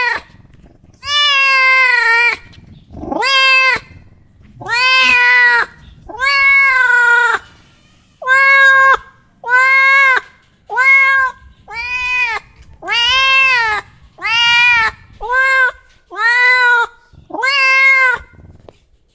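A domestic cat meowing over and over, about fourteen loud, drawn-out meows in a row, each rising and then falling in pitch, with short pauses between them.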